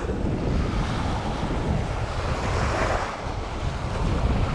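Wind buffeting the microphone with a steady rumble, over small waves washing at the shoreline.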